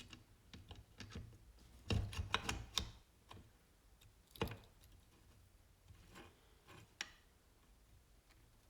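Metal transmission parts of a small 125 cc motorcycle engine clicking and clinking against each other and the crankcase as they are slid into place: a cluster of clinks about two seconds in, then single sharper clicks.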